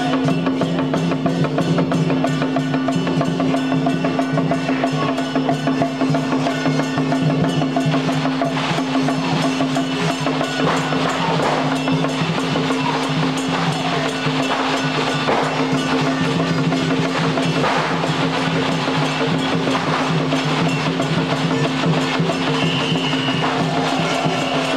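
Temple procession music: fast, continuous drumming and percussion over a steady held drone.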